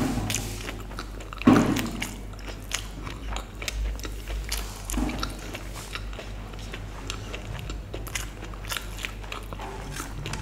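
Close-miked chewing of a mouthful of vegetable biryani eaten by hand, with many small wet mouth clicks and a louder bite about a second and a half in. Fingers gather and squish rice on the plate later on.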